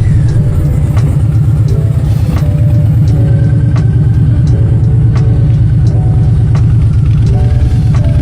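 Harley-Davidson motorcycle engine running steadily with a loud, low rumble.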